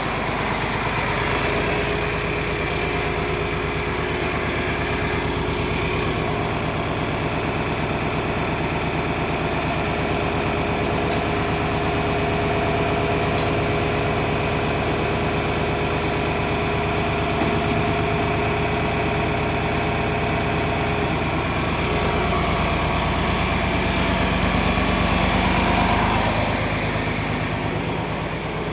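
John Deere tractor engine idling steadily, swelling a little louder for a few seconds near the end.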